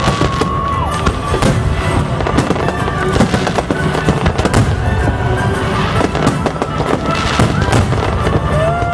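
Fireworks display: aerial shells bursting in a rapid, irregular string of bangs over a continuous rumble, with music playing underneath.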